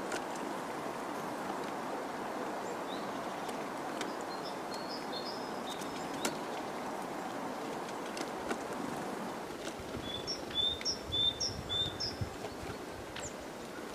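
Woodland ambience with a steady background hiss, over which a small bird gives two short runs of high chirping notes, the second a quick series of four or five. A few soft knocks come in the later part.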